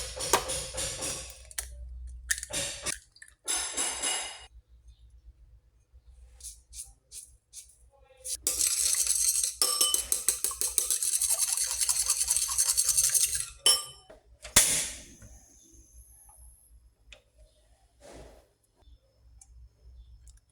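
Kitchen utensils and dishes clinking and clattering in short bursts, with a stretch of rapid, rhythmic clinking lasting about five seconds near the middle.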